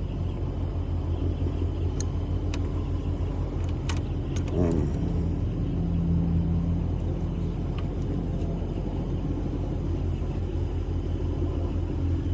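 A steady low mechanical hum, with a few sharp clicks and taps about two and four seconds in.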